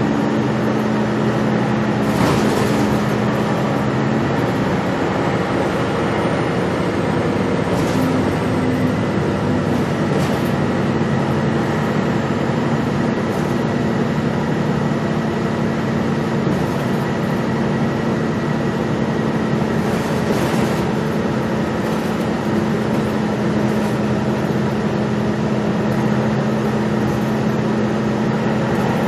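Gillig Low Floor transit bus running: a steady engine hum over continuous road noise, with a few short rattles or knocks.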